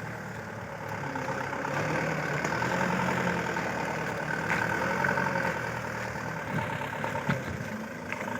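Fully loaded truck's diesel engine running at low revs as it crawls along, growing a little louder in the middle, with a few short knocks and rattles.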